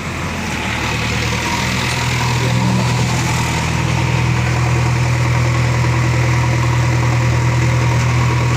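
Diesel engine of a JCB backhoe loader running; its note rises and gets louder about a second in, then holds steady.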